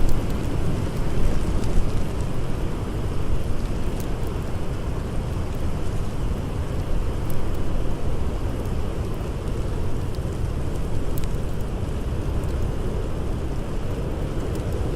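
Blizzard wind blowing in a steady low rumble, with a few faint crackles from a campfire.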